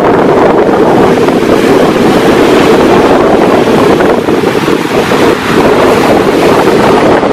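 Strong wind on the microphone, loud and steady, over the continuous wash of ocean surf.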